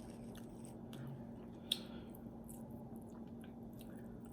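A person chewing quietly, with soft wet mouth sounds and scattered small clicks, one sharper click a little under two seconds in.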